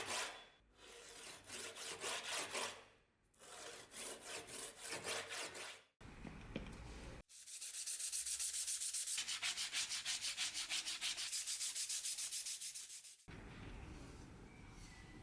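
Sandpaper rubbed back and forth by hand over a steel knife blade, with even strokes of about five a second in the longest run. The strokes come in several short edited stretches and give way to a quieter steady sound near the end.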